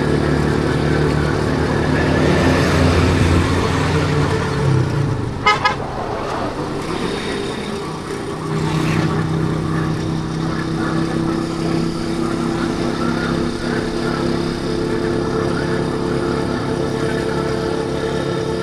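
Motorcycle engine running steadily while riding, with two quick horn toots about five and a half seconds in.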